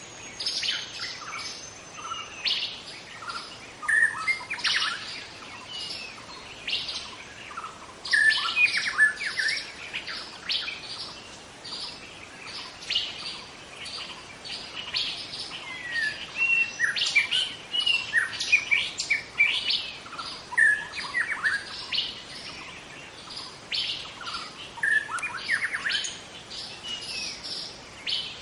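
Young white-rumped shama (murai batu) singing a continuous, varied song of quick whistles, chirps and rattling trills, in dense phrases with brief pauses between them.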